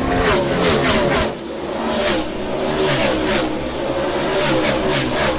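NASCAR Sprint Cup stock car V8 engines running at high revs. About a second in the sound drops briefly, then the engine pitch climbs steadily as a car accelerates.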